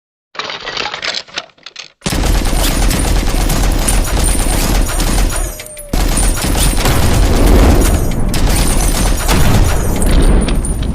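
A loud, dense volley of rapid bangs and crackles, like sustained automatic gunfire. It starts abruptly about two seconds in after a few short quieter sounds, and dips briefly about halfway through.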